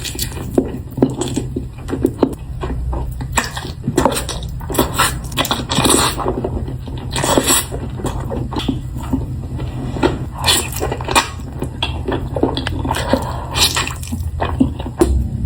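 Close-miked eating sounds: irregular wet chewing, smacking and squelching mouth noises, many short clicks in quick, uneven succession, over a steady low hum.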